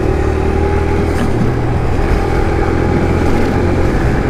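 Kawasaki KLX140 pit bike's small single-cylinder four-stroke engine running at a steady, moderate speed while riding.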